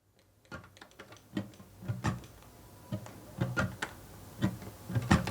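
A series of about a dozen light, irregular knocks and clicks, with a little low thud in some, and no music playing.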